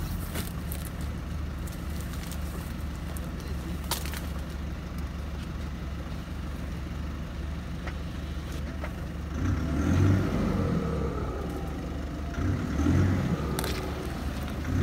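Off-road vehicle's engine running at idle with a steady low hum, swelling louder twice in the second half, with a few sharp snaps and rustles.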